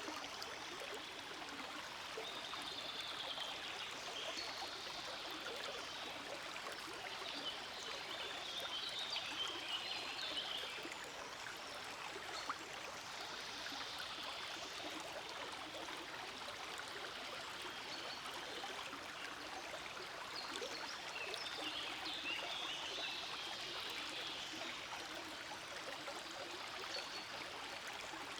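Small forest stream flowing, a steady, even babble of running water.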